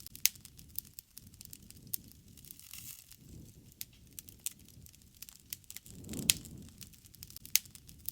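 Wood campfire crackling, with sharp pops of burning wood at irregular moments over a low rush of flame. The rush swells and the loudest pop comes about six seconds in.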